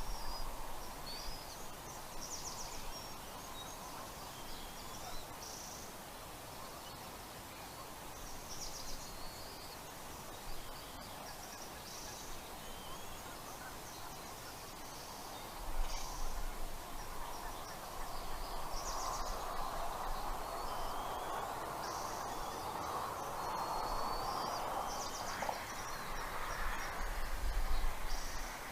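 Bald eagles giving short, high chittering calls and trills every couple of seconds, over wind noise on the microphone that grows louder in the second half.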